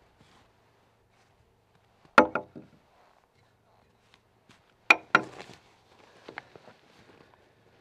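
Axe blows into a timber: two heavy strikes about three seconds apart, each followed at once by a lighter knock, then a few faint taps near the end.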